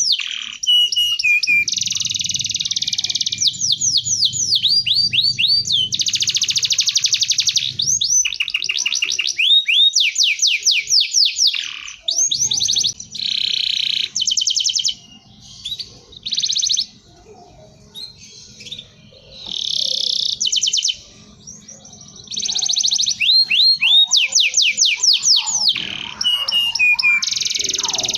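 Domestic canary singing: long phrases of fast trills and rolling, rapidly repeated notes, broken by a few short pauses in the second half.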